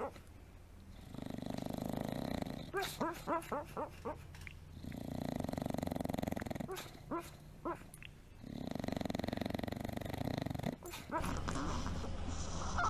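A sleeping dog snoring in slow breaths: each breath is a rasping snore followed by a quick run of short pitched puffs, about six a second, three breaths in all. About eleven seconds in the sound changes to a steadier snore.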